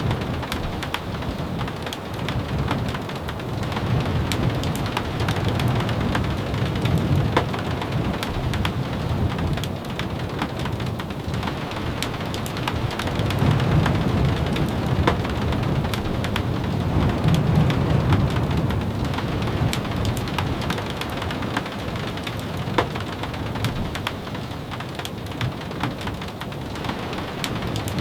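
Steady rain with many small scattered clicks of drops. A low rumble swells up twice in the middle.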